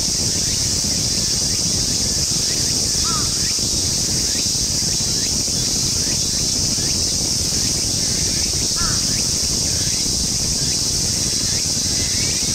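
Steady, dense high buzzing of an insect chorus over a constant low rumble, with a few short, faint chirps.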